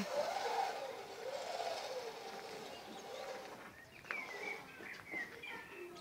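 Birds calling: low rising-and-falling calls in the first few seconds, then higher chirping notes from about four seconds in.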